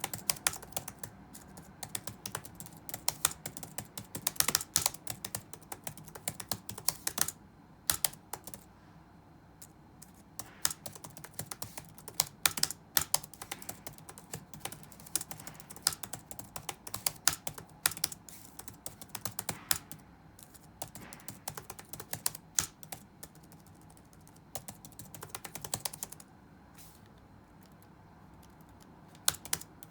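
Touch-typing on a computer keyboard: rapid keystroke clicks in uneven runs, broken by short pauses, over faint steady room noise.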